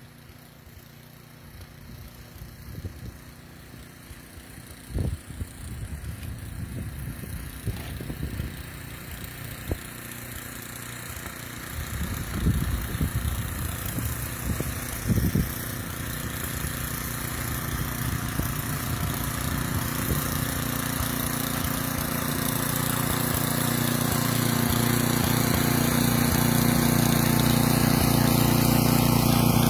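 Small snowblower engine running steadily, growing louder toward the end, with a few knocks in the first half.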